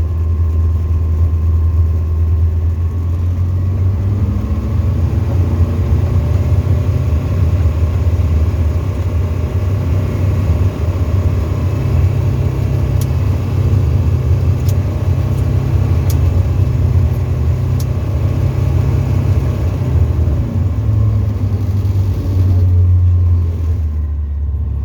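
Tecnam ultralight's piston engine and propeller running steadily with a deep, even drone, heard inside the cockpit.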